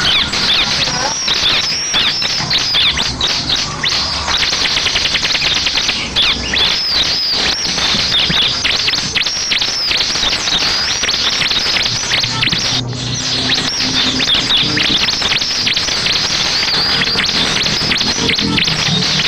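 Ciblek (bar-winged prinia) song: a dense, unbroken chatter of quick high chirps, the rapid 'bren' style used as a lure sound to get caged ciblek to answer, with one very brief break about 13 seconds in.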